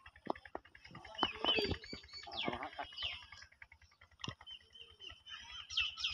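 Birds chirping in short rising and falling calls, in bursts about a second in and again near the end, with a few sharp knocks among them.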